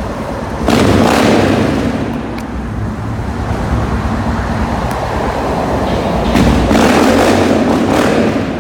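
Motorcycle engine running amid road traffic, the sound swelling sharply under a second in and again about six and a half seconds in.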